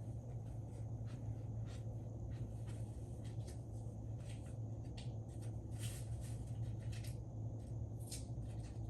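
Paper and sticker-book pages being handled at a desk: light rustles and scattered small taps, a little louder about six and eight seconds in, over a steady low hum.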